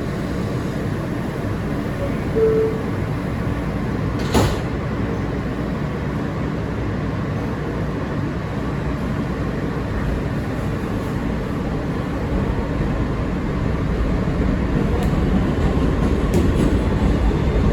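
Interior of an R160B Siemens subway car: a brief tone, then the doors shut with a knock about four seconds in, followed by the steady rumble of the car. The running noise grows louder over the last few seconds as the train gets under way.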